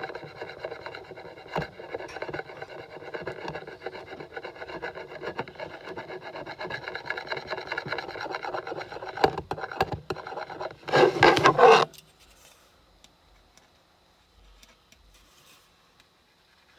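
Red marker pen rubbed back and forth over a plastic HVAC logo badge, a continuous squeaky, scratchy rubbing. It grows louder for a moment about eleven seconds in, then stops about a second later.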